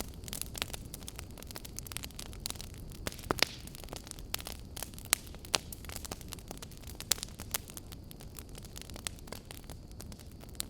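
Wood fire in a fireplace crackling: irregular sharp pops and snaps over a steady low rumble of the flames, with a few louder pops along the way.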